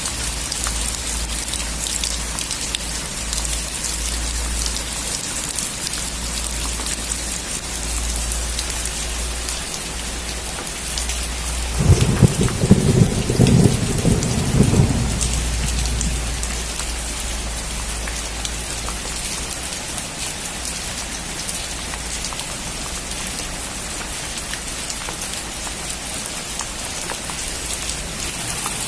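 Steady heavy rain falling, with a clap of thunder rumbling low for about four seconds near the middle and fading away.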